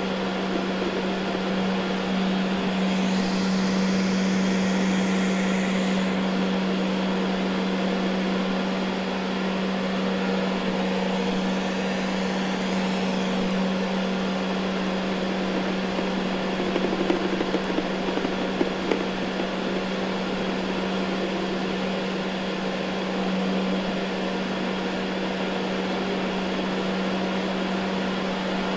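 Ecovacs Deebot N79 robot vacuum running on carpet: a steady motor hum with suction noise, and a few faint ticks about two-thirds of the way through.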